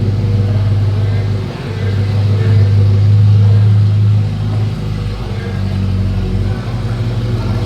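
Car engine running with a low, steady drone that swells louder for a second or two in the middle.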